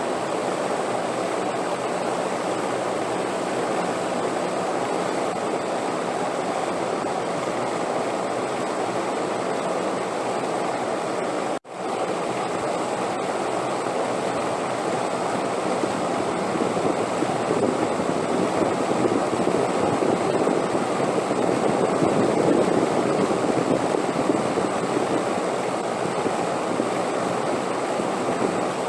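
Steady wind noise, a dense even rushing that swells a little in the second half. It cuts out for an instant about twelve seconds in.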